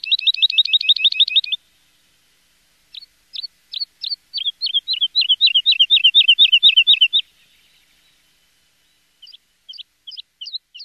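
Birdsong: a small bird singing rapid runs of repeated high chirps, about eight a second, in three phrases with pauses between them.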